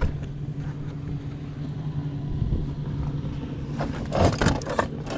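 A steady, low engine hum, like a motor vehicle idling. About four seconds in, a short spell of rustling and clatter as something is rummaged through.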